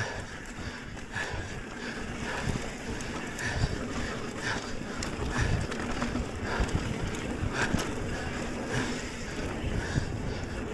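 Mountain bike riding over a dirt trail: wind buffeting the microphone over the rumble of tyres, with irregular knocks and rattles from bumps.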